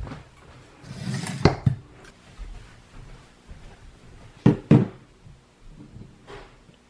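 Household handling noises in a small room: a brief rustle ending in a couple of knocks, then two sharp knocks in quick succession, and a faint swish near the end.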